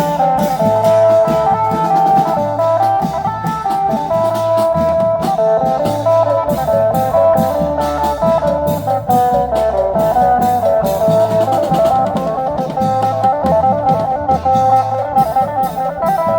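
Live band music: a fast plucked-string lead melody over a steady drum beat and a repeating bass line.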